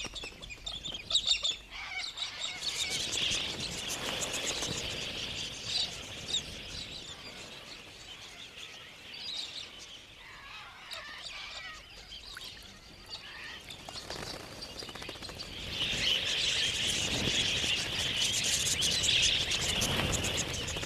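Parrots calling and chattering in a noisy mix of squawks and chirps. The calling thins out in the middle and is densest over the last several seconds.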